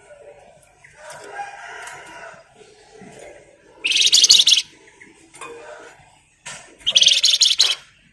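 Flamboyan (Javan fulvetta) singing: soft chirps, then two loud, very fast, dense high trills, about four and seven seconds in, each lasting under a second.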